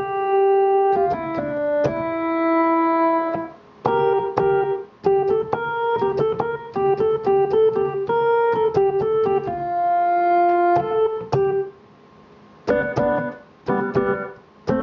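Omnisphere "backwards studio piano" synth patch played on a keyboard: reversed piano notes and chords in a loose, unhurried run, with two short breaks in the playing.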